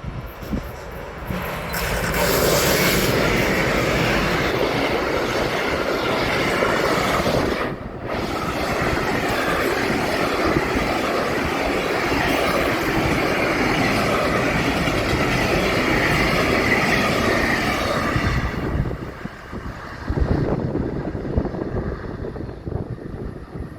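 A train passing close by at speed: steady loud rail and wheel noise that builds over the first two seconds, runs for about sixteen seconds with a brief dip around eight seconds in, then falls away to wind noise.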